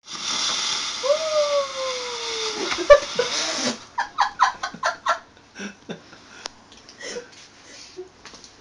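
Fireworks going off: a hiss with a tone sliding downward, then a sharp bang about three seconds in. After it comes a quick run of short bursts and a few scattered pops.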